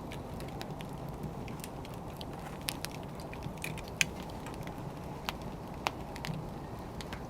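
Wood fire crackling: a steady low rush of burning with irregular sharp pops and snaps, the loudest about four seconds in.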